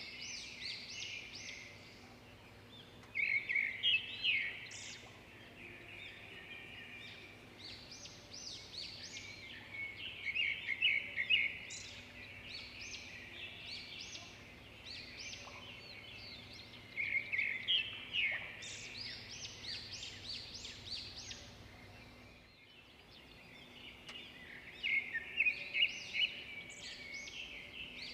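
Songbirds chirping and twittering, the song swelling into four dense bursts about seven seconds apart over a steady faint hum.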